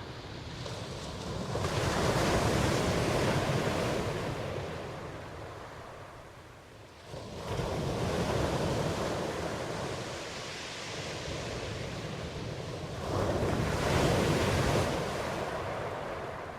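Ocean surf: waves wash in three times, each swelling to a rush of noise and slowly fading, the second one starting suddenly about seven seconds in.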